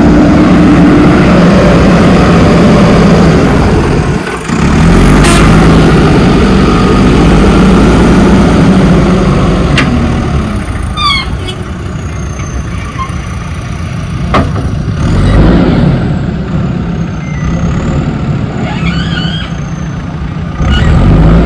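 JCB 3DX backhoe loader's diesel engine running under working load, loud for the first ten seconds, then dropping back and swelling again near the end. A few sharp knocks come through along the way, at about 5, 10 and 14 seconds.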